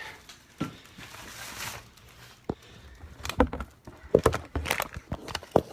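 Handling noise: a soft rustle, then a quick irregular run of knocks and clicks from about three seconds in.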